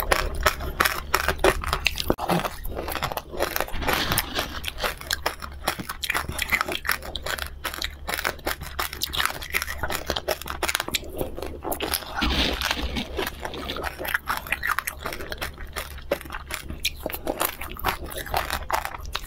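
A person crunching and chewing a hard candy coated in grains, seeds and sprinkles: many crisp, irregular crunches in quick succession.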